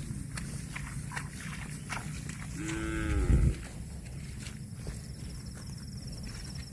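A cow mooing once, about three seconds in: a single call of about a second that rises and then falls in pitch.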